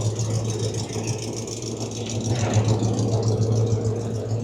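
Car engine running at a low, steady idle.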